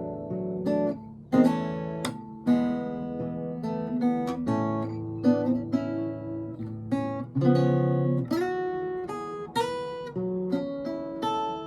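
Solo acoustic guitar played fingerstyle: plucked chords and a melody line with sharp attacks and a few sliding notes.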